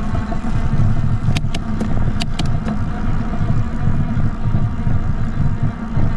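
Riding noise from an e-bike climbing a steep hill: a steady, gusty low rumble of wind on the microphone, with a quick run of four or five sharp clicks about one and a half to two and a half seconds in.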